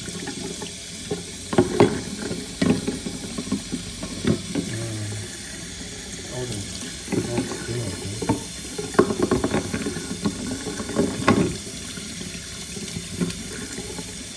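Tap water running into a sink while a washing machine's drain pump filter is rinsed and turned under it, with irregular clatters and splashes of the plastic part being handled.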